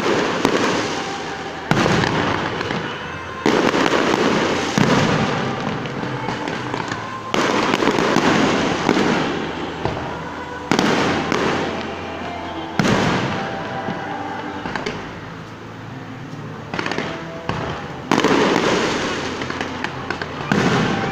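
Aerial fireworks display: repeated sharp bangs, one every one to two seconds, each followed by a fading crackle.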